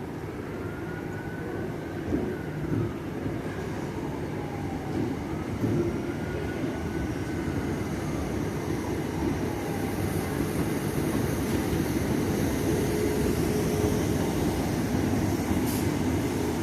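A train running through the station, a low steady rumble that grows gradually louder, with faint wavering high tones in the first half.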